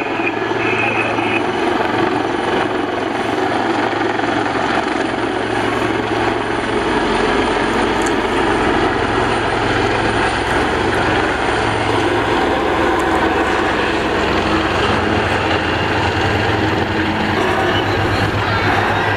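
AgustaWestland Wildcat HMA2 helicopters' rotors and turboshaft engines, running steadily and loudly overhead with a constant low rotor beat.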